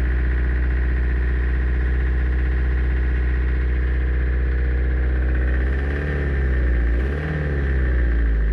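Toyota Hiace engine idling steadily, then revved up and let back down twice near the end, while it burns off a decoking treatment.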